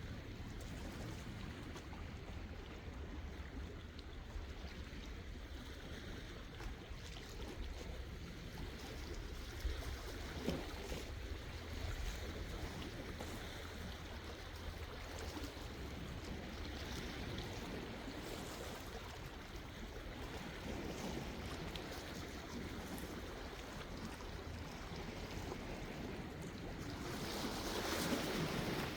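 Sea waves washing gently onto the shore under a steady low rumble, with a larger wave washing in near the end.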